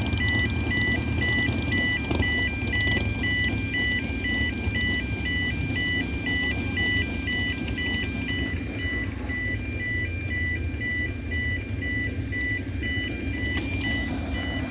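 Level crossing alarm sounding continuously, a high two-tone warble that alternates rapidly and evenly between two pitches, warning road users that a train is approaching. A steady low rumble runs underneath.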